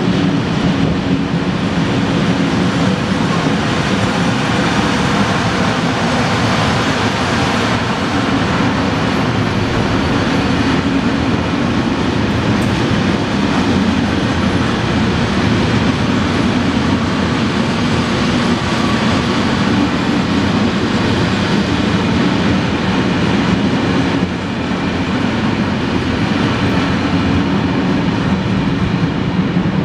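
Freight train of covered sliding-wall wagons rolling past at speed: a steady loud rumble of wheels on rail and rattling wagon bodies, dipping slightly about 24 seconds in.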